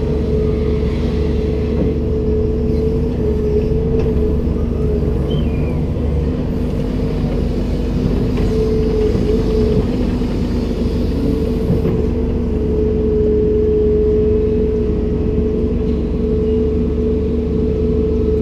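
Komatsu PC290-10 excavator's diesel engine running steadily under a low rumble, with a steady whine over it.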